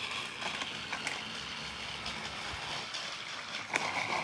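Battery-powered Trackmaster toy engines running on plastic track: a steady whir of small motors and rattling wheels, with a few sharp clicks near the end.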